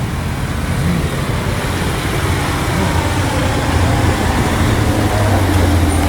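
Car engine running at low revs amid general traffic noise, its low hum growing a little stronger about four seconds in.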